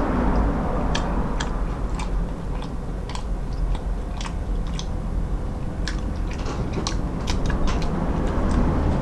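A person chewing and biting food with the mouth close to the microphone: irregular short clicks and wet smacks, a few a second. A steady low rumble runs underneath.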